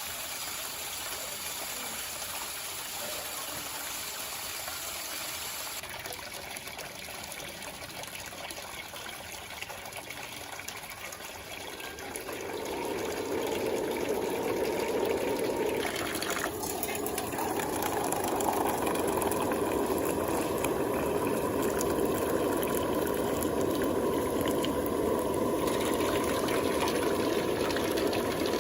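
Water running steadily, like a tap flowing. It grows louder and fuller about twelve seconds in, and its tone shifts abruptly a few times.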